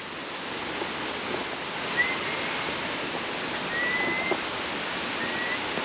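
Steady rush of flowing river water. Three short, faint, high whistles sound over it.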